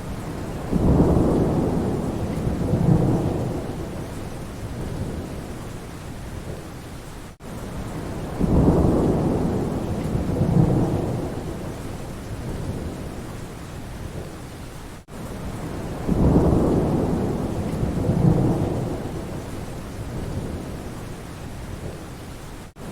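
Steady rain with a roll of thunder about every seven and a half seconds. Each roll swells twice and fades out. Just before each roll the sound briefly drops out, and the rolls repeat identically: a short rain-and-thunder recording played as a loop.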